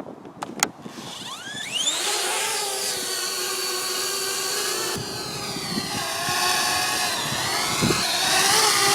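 Parrot Bebop 2 quadcopter's electric motors and propellers spinning up with a rising whine about a second in as it takes off, then running steadily in flight. The pitch dips and climbs back again in the second half. A couple of sharp clicks come just before the spin-up.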